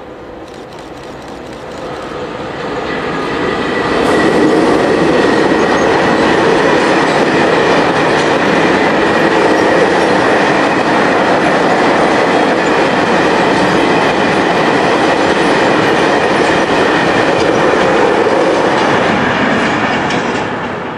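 A train passing on the line, its noise growing over the first four seconds, staying loud and steady, then starting to fade near the end.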